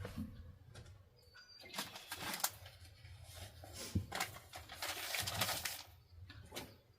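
Rustling and clattering of things being handled and packed away, with light knocks and clicks; the longest rustling stretch comes about four and a half seconds in. A low steady hum runs underneath.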